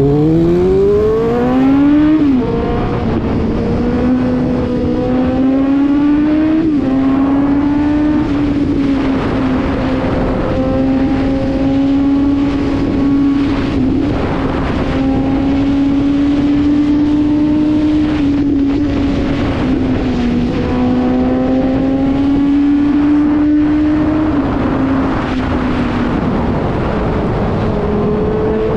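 Suzuki 750 motorcycle engine accelerating hard with a steeply rising pitch for about two seconds, then held at high, fairly steady revs with small rises and dips, under rushing wind noise.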